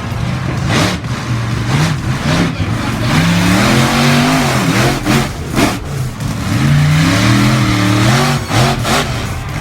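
Monster truck engine revving hard, its pitch climbing and dropping in repeated bursts over a loud wash of noise, with a few sharp knocks.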